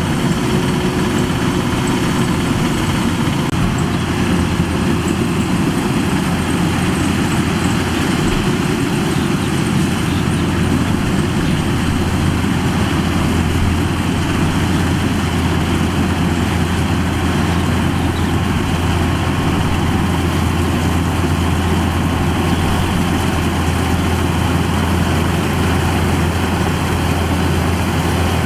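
Kubota DC-105X combine harvester's diesel engine running steadily, an even, unchanging drone.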